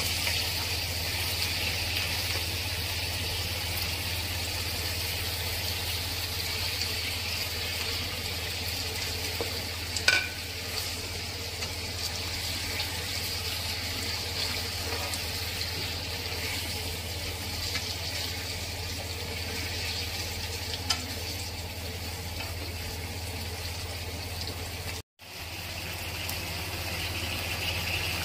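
Beef, potatoes and tomatoes in Balinese spice sauce sizzling steadily in a non-stick wok on a gas stove, stirred with a spatula, with a steady low hum underneath. The spatula clicks against the pan twice, and the sound cuts out for a moment near the end.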